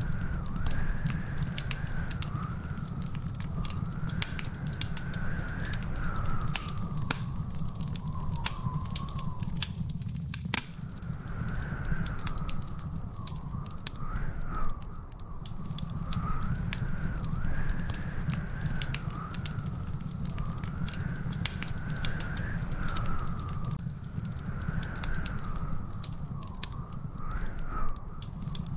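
Wood fire crackling in a fireplace: frequent sharp pops and snaps over a steady low rumble. A thin whistle wavers up and down in pitch throughout.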